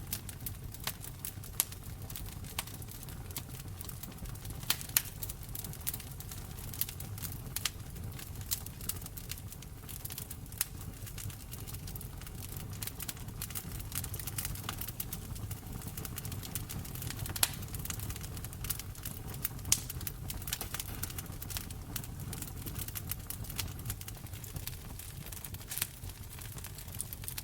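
Wood fire crackling in a fireplace: a steady low rumble of the flames with frequent irregular pops and snaps, a few of them sharper and louder.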